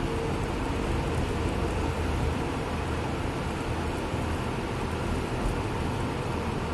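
A bus running steadily, heard from inside the cabin: an even rush of road and tyre noise over a low engine rumble, with a faint steady hum.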